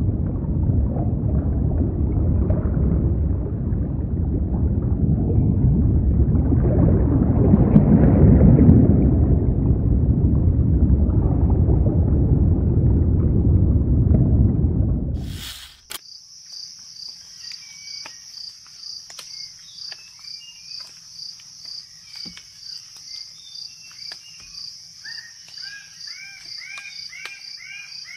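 Low rumbling underwater ambience that swells about eight seconds in, then cuts off abruptly at around sixteen seconds to crickets chirping in a steady pulsing rhythm. Near the end a second repeated chirping call joins in.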